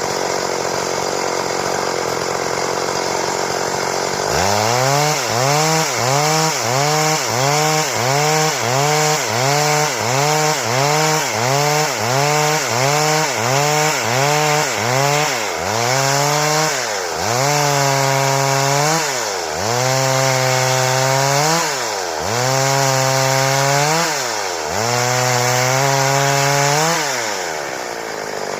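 Stihl chainsaw cutting wood, its engine note dipping and recovering in a steady rhythm about once a second, then in slower, longer swells, as the chain bites into the cut. It runs more evenly for the first few seconds, and its pitch falls away near the end.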